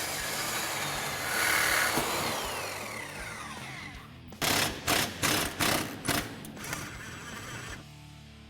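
A power cutting tool cuts through the steel of a stock exhaust downpipe near the weld. It runs steadily for several seconds and winds down with a falling pitch. Then comes a quick series of about eight short, loud bursts.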